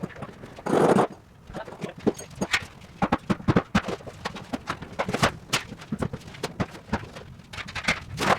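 Demolition work on a prefab cold room: irregular knocking and clattering, many sharp knocks in quick succession, with a brief louder rush of noise just under a second in.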